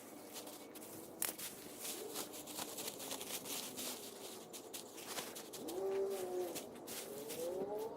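Leaf rake scraping and rustling through leaves in short, repeated strokes. Late on, a pitched sound rises and falls twice over the raking.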